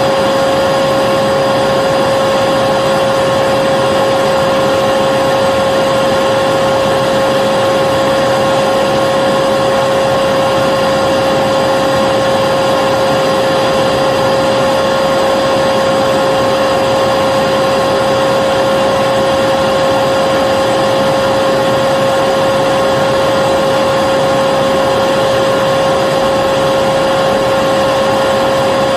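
Vacuum cleaner running steadily: an even noise with a constant high whine, unchanging throughout.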